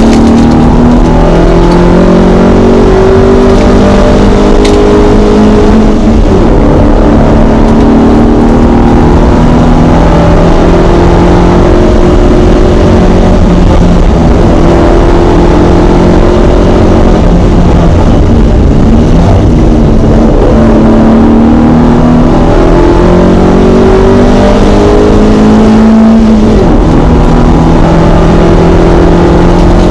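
Alfa Romeo GT Junior 1300's twin-cam four-cylinder engine at full racing load, heard loud from inside the cabin. Its pitch climbs and drops again and again as the driver runs up and down the gears between bends.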